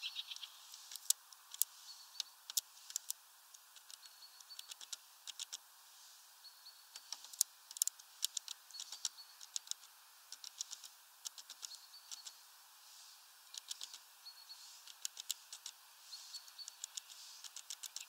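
Small bird calling with short, thin high notes about once every second or so, among many sharp ticks and taps.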